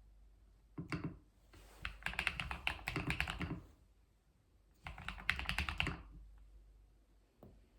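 Typing on a computer keyboard: two runs of rapid keystrokes, each a couple of seconds long, with a few scattered key clicks before and after.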